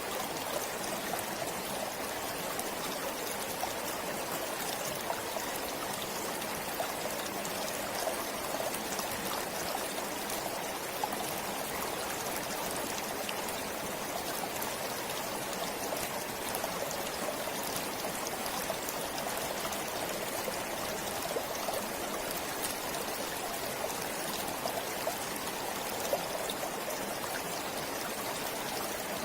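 Flowing stream: steady running water with small splashes and drips.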